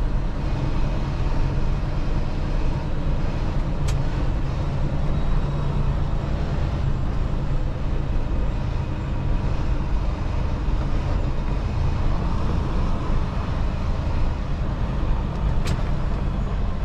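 Semi truck's diesel engine running steadily, heard from inside the cab, with two brief sharp clicks, one about four seconds in and one near the end.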